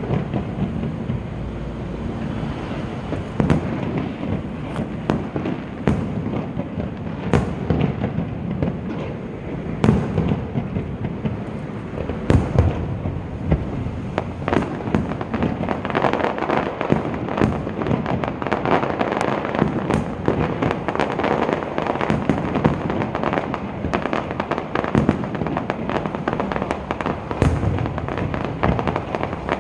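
Fireworks display: a continuous crackling with many sharp bangs scattered through it, the crackle growing denser about halfway through.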